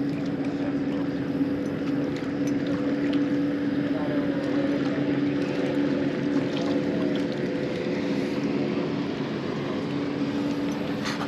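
A motor running steadily with an even, constant hum.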